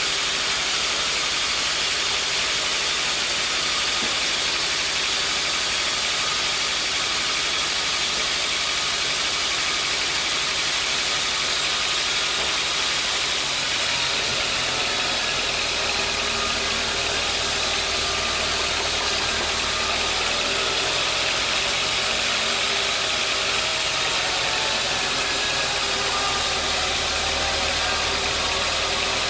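Sawmill machinery running steadily: a dense, high-pitched mechanical noise with steady tones in it. A deeper drone comes in about halfway through and grows stronger near the end.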